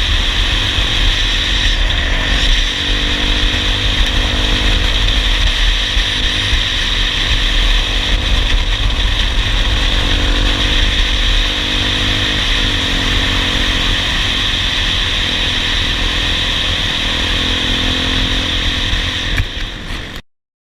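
Dirt bike engine running while ridden, its pitch shifting a little with the throttle. It cuts off suddenly near the end.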